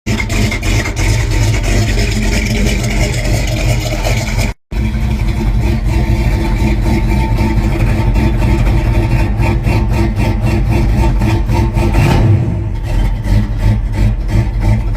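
An engine running steadily, with a rev about 12 seconds in, in edited clips broken by abrupt cuts.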